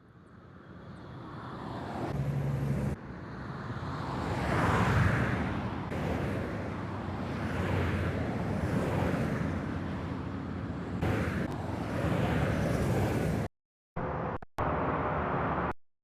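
Highway traffic recordings: a steady wash of road noise with vehicles passing, heard as a run of short previews that cut abruptly from one to the next several times.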